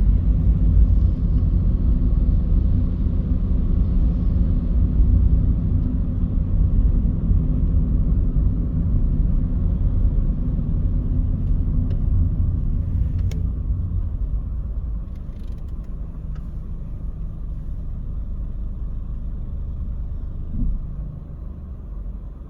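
A car being driven, with steady low road and engine rumble. The rumble grows quieter a little over halfway through, and there is a short low bump near the end.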